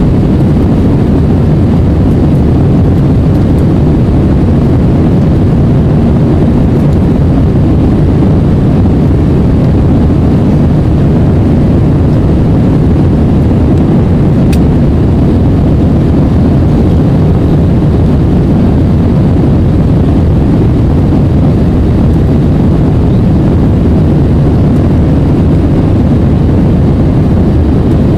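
Airbus A320 in flight, heard from inside the cabin: a steady, loud roar of jet engines and airflow that holds level throughout, with a single faint click about halfway through.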